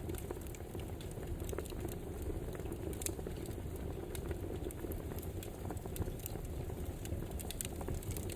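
Campfire burning: a steady low rush from the flames with frequent small, irregular crackles and pops from the burning wood.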